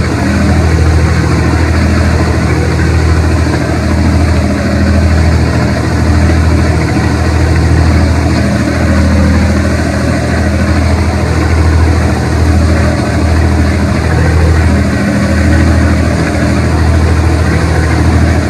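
Boat engine running steadily, a loud low drone that swells and fades slightly, under a constant rushing noise.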